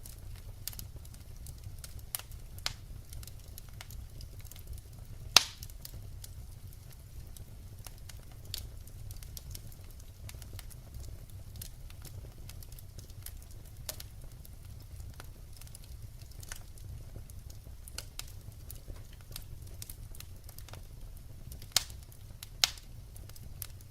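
Firewood burning and crackling: scattered small pops and snaps over a low steady rumble, with one loud pop about five seconds in and two sharp snaps near the end.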